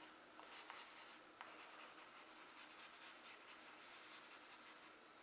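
Faint scratching of a charcoal stick on drawing paper as its corner works small circles, with a few light ticks in the first second and a half.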